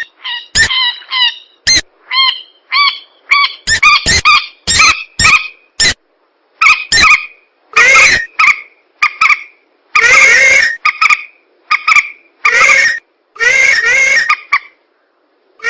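Bird-call lure recording of swamp birds (mandar rails and pelan): a loud series of short, honking calls, coming in quick runs in the first half and as longer calls later on, with brief gaps between them.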